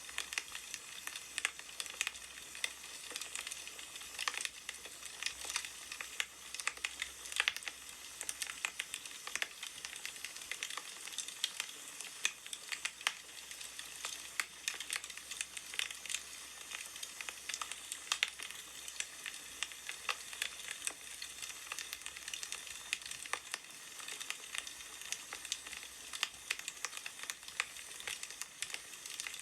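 Firewood burning, with steady crackling and irregular sharp pops.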